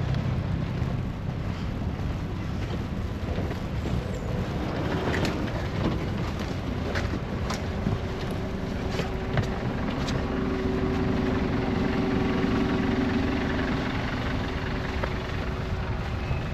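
Street ambience in a snowstorm: wind and a steady low rumble of city traffic. A vehicle engine's hum rises and fades in the middle, with scattered light clicks.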